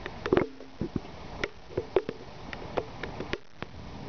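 Irregular raindrops tapping and plinking on a nearby surface, a dozen or so sharp drops over a steady hiss of rain.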